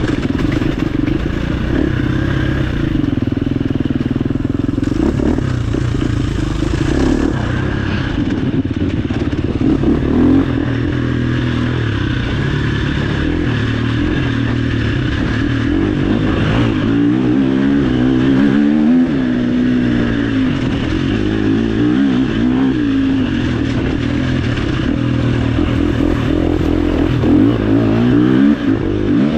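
Off-road dirt bike engine running hard on a trail ride, its pitch rising and falling repeatedly as the rider works the throttle and gears, with some clattering over rough ground.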